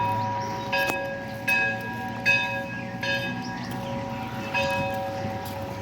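Metal temple bells rung again and again, about six strikes spaced under a second apart, each ringing on so that the tones overlap.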